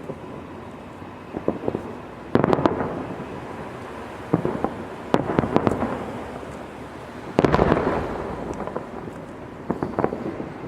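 Fireworks going off: about five sudden bangs a second or more apart, each followed by crackling that dies away.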